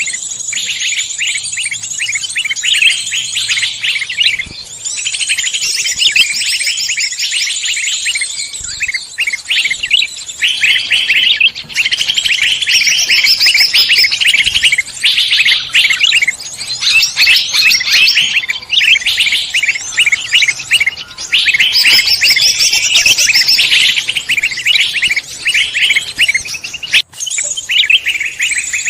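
A dense chorus of forest songbirds chirping and trilling rapidly over one another, with hardly a break.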